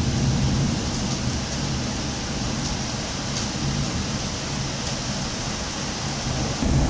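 Heavy rain falling during a thunderstorm, a steady hiss with a few faint drop ticks. A low rumble sits underneath, eases off and swells louder again near the end.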